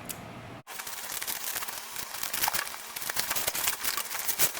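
Bubble wrap being pulled off a cardboard box: a dense, steady run of plastic crinkling and crackling that starts after a short break under a second in.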